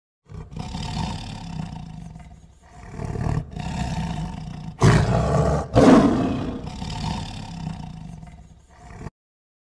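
Tiger growling and roaring: a run of rough, low growls, with the two loudest roars about five and six seconds in.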